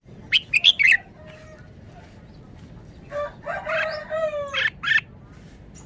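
A red-whiskered bulbul gives a quick run of four sharp, bright notes near the start. From about three seconds in, a rooster crows once in a long, slightly falling call, followed by two more sharp bird notes.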